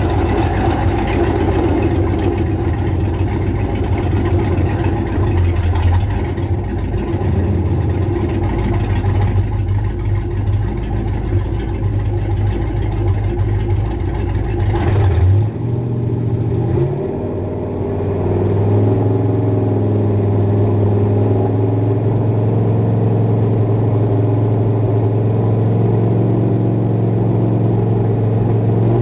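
Freshly built Chevrolet 409 V8 running on an engine stand on its first start, through bare exhaust manifolds. It runs at a raised, rough speed for about the first fifteen seconds, then drops and settles into a steadier idle.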